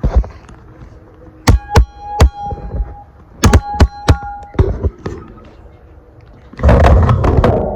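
Sharp knocks on a metal object in two quick groups, each leaving a short ringing tone, then a loud rough rustling burst near the end.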